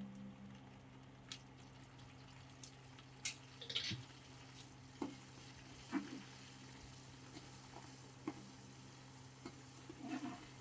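Scattered knocks and clinks of cooking utensils working in a large pot, with the loudest strikes about a third of the way in, halfway through and near the end, over a steady low hum.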